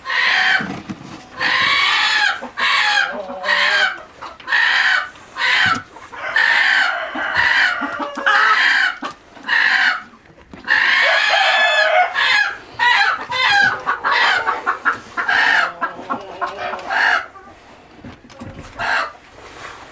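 Chickens calling loudly, one call after another with short gaps between them, the calls thinning out over the last few seconds.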